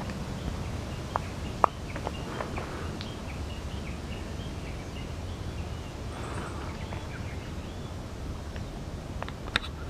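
Wild birds calling in woodland: short scattered chirps throughout, with a few sharp clicks, over a steady low rumble.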